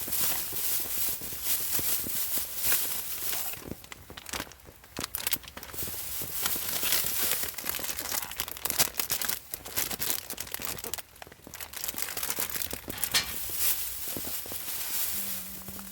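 Plastic shopping bags and food packaging crinkling and rustling in irregular bursts as groceries are handled.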